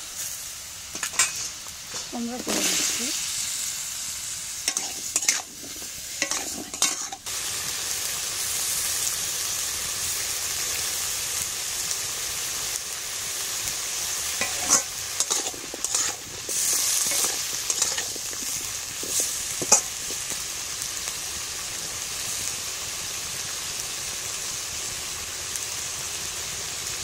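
Pumpkin pieces frying in oil in a black wok (kadai): a steady sizzle. A spatula stirs and scrapes against the pan now and then, mostly in the first seven seconds and again between about 15 and 20 seconds in.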